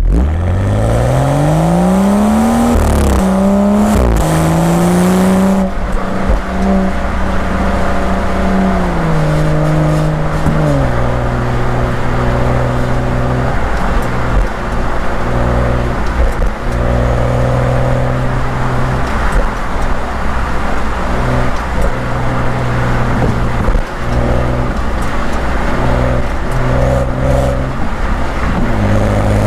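BMW M235i's turbocharged inline-six exhaust under hard acceleration: the pitch climbs steeply for a few seconds with a quick dip at a gear change. It then holds, drops around ten seconds in, and settles into a steady, lower cruise note.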